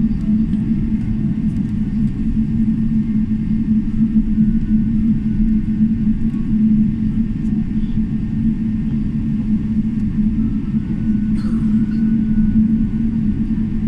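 Cabin noise inside a Boeing 777-300ER on the ground after landing: a steady low rumble with a constant hum, and a faint brief click near the end.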